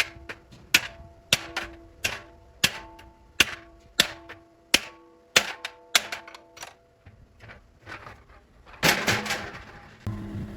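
Hammer blows on a metal cooking pot, about three every two seconds, each strike ringing with a metallic tone. There is a rougher burst of clatter near the end.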